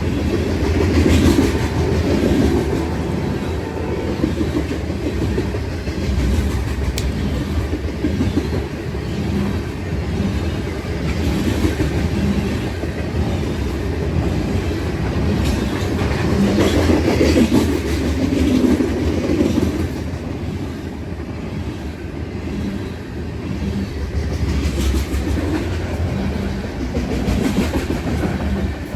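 Freight train cars rolling past at steady speed: a continuous rumble with wheels clacking over the rail joints.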